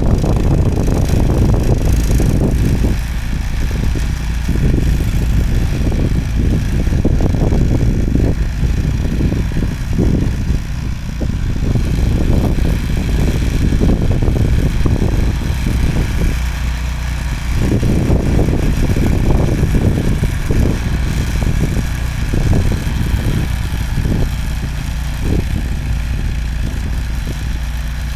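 Snowblower engine running continuously, its sound swelling and easing unevenly.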